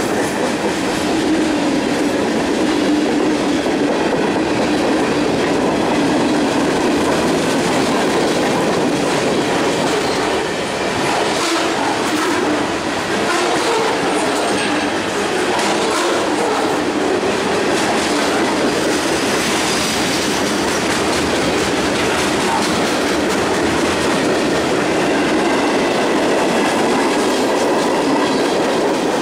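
Freight cars of a CSX mixed manifest train rolling past close by: a steady, loud rumble of steel wheels on rail with a running clickety-clack of wheels over the joints, and a thin wheel squeal now and then.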